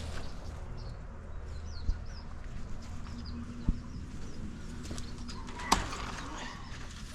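Birds chirping faintly over a steady low hum, with three sharp knocks about two seconds apart, the last one the loudest.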